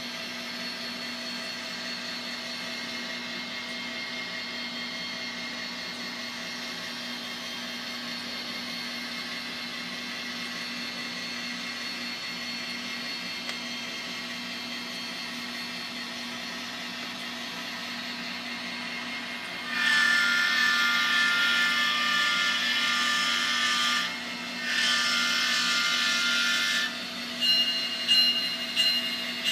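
N scale GP60M's LokSound micro DCC sound decoder playing a diesel locomotive's prime mover, idling steadily through the model's tiny speaker. About twenty seconds in, the diesel horn sounds in two long blasts, followed by a few short loud sounds near the end.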